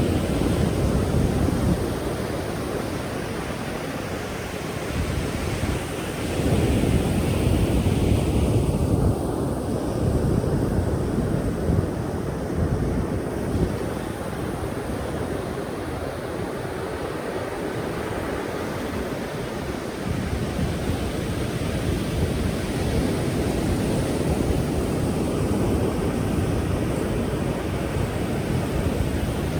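Ocean surf: waves breaking and washing in, a steady rush that swells and eases every few seconds.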